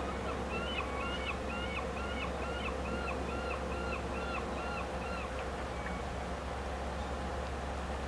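A bird calling a quick series of about a dozen short notes, two or three a second, that stops about two-thirds of the way through, over a steady low hum.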